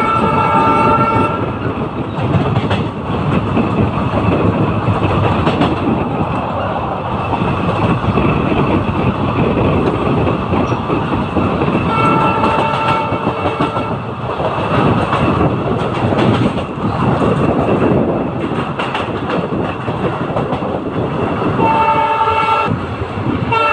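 Express passenger train running at speed, heard from onboard: a steady rumble with the clatter of wheels over rail joints. The locomotive's horn sounds three times, at the start, about twelve seconds in, and near the end.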